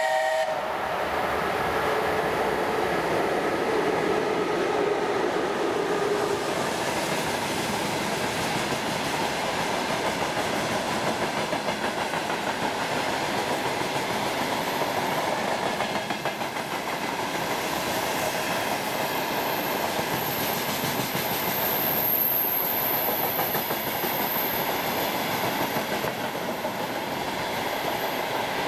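A VL10 twin-section DC electric locomotive passes at speed at the head of a freight train. It is followed by a long string of freight wagons running past with a steady rumble and the clickety-clack of wheels over the rail joints.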